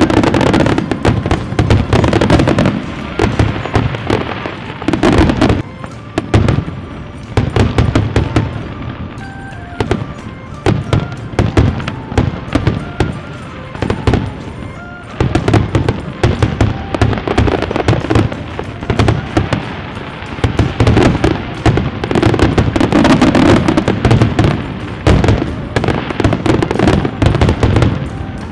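Fireworks going off in rapid, almost continuous bangs and crackles, with music playing underneath.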